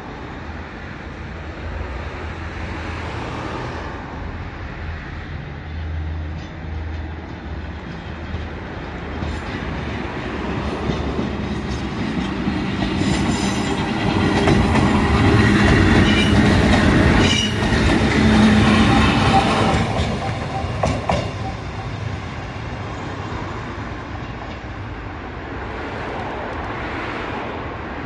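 Kotoden retro electric train, led by car No. 120, rolling slowly past on a shunting move, its wheels clacking over the rail joints. The sound builds as it comes close, is loudest for several seconds in the middle with a run of sharp clacks, then fades as it moves away.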